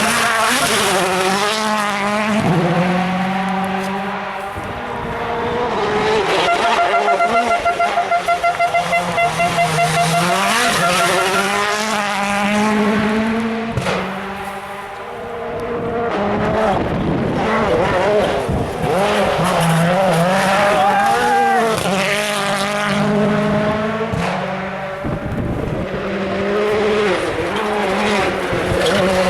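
World Rally Car turbocharged engines at full throttle through the gears, the pitch repeatedly climbing and dropping at each shift and lift. The sound swells and fades as cars pass, with a held, rapidly pulsing note for a few seconds near the start.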